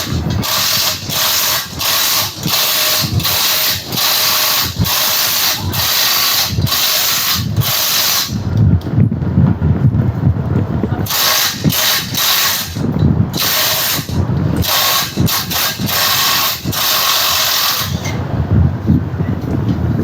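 Electric drill boring out a worn motorcycle swing arm bushing, run in repeated short bursts with brief pauses, and stopping twice for a few seconds.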